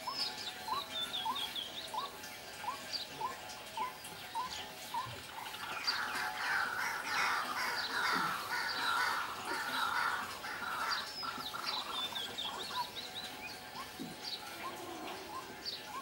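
Several birds calling: a short rising whistle repeated about twice a second, with high chirps above it. In the middle a louder, dense chattering takes over for several seconds, and near the end the whistles and chirps come back.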